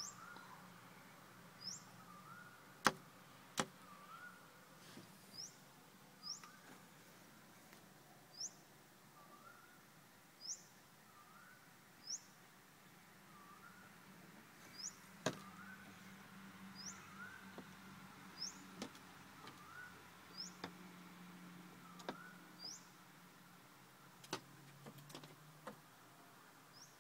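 A small bird calling over and over, each call a lower whistled note paired with a short, high, sharp note, repeated about every one to two seconds. A few loud, sharp taps against the car come in between, as the bird pecks at the mirror and glass.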